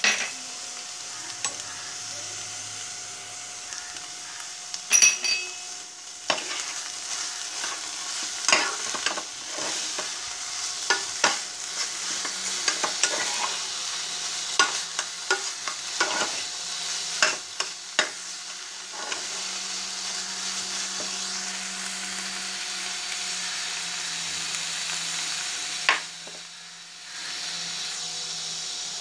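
Mashed banana stem and spice masala frying in a pan with a steady sizzle, while a metal spoon stirs it, scraping and knocking against the pan many times, mostly in the first two-thirds.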